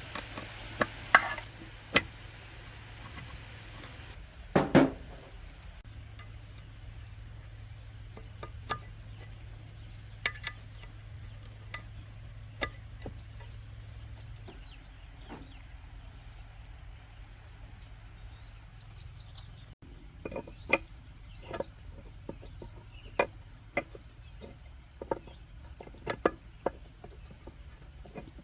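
Scattered clinks, clicks and knocks of metal tools and parts being handled on a workbench, over a low steady hum; the knocks come more often in the last third.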